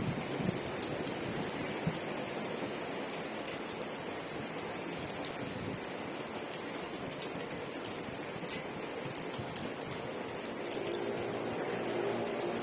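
Steady rain falling, an even hiss with many small drop ticks scattered through it. A faint low hum joins near the end.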